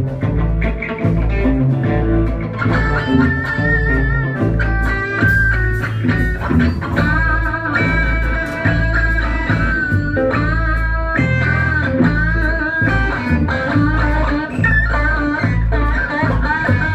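Live band playing an instrumental passage: guitar, bass and drums, with a sustained, wavering lead melody line coming in about three seconds in.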